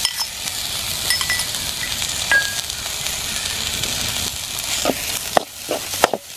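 Crushed coconut, onion and chilli mix sizzling in hot coconut oil in an iron kadai. Near the end a steel ladle clicks and scrapes against the pan as the mix is stirred.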